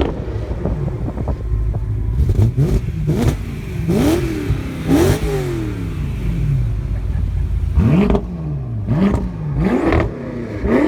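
BMW M car's engine revved in quick blips through its exhaust, about eight times, each one rising and falling in pitch. There are a few sharp pops in between.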